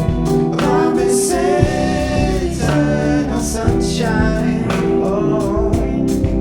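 Live band playing: a singer holds long, wavering notes over electric guitar, keyboard and drums.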